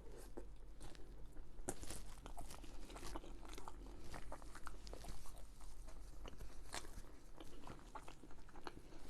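A person chewing and biting food close to the microphone, with many short, irregular clicks and crackles of mouth and food sounds.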